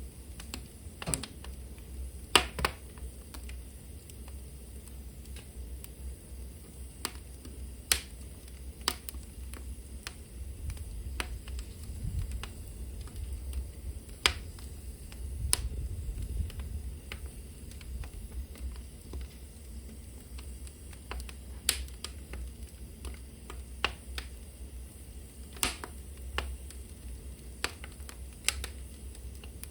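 Wood fire burning in a fireplace hearth: irregular sharp crackles and pops from the burning logs over a steady low rumble of the flames.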